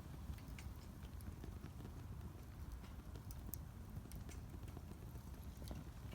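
Wood fire burning in a Solo Stove Campfire fire pit: a steady low rumble of flame with scattered sharp crackles and pops from the burning wood.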